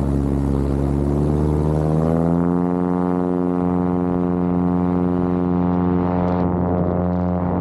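Cessna 170B's engine and propeller running, giving way about two seconds in to a steady droning music note that holds to the end.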